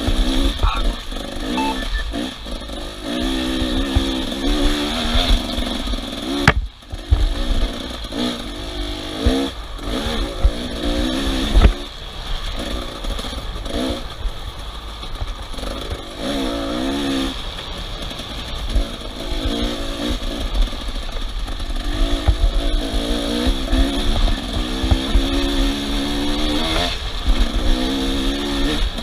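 Off-road vehicle engines revving, the pitch rising and falling again and again as they climb and work the throttle, over a heavy low rumble. The sound drops out briefly about six and a half seconds in.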